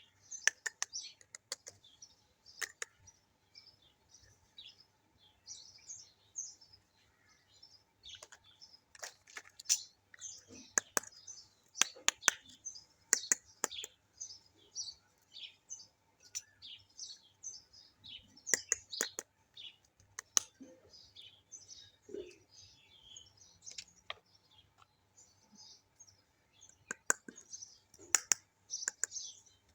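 Hard plastic toy kitchen pieces clicking and tapping as they are handled, in irregular sharp clicks. Birds chirp in the background throughout.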